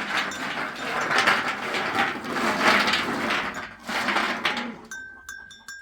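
Rough crunching and rustling in uneven strokes about once a second, dying away near the end, where a brief high steady tone sounds.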